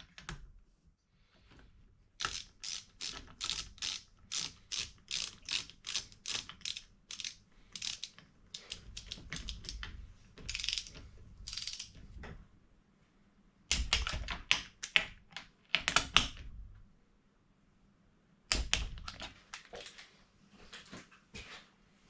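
Ratchet wrench clicking as fasteners on a motorcycle engine's top end are tightened: a long run of regular strokes, then shorter runs after a pause.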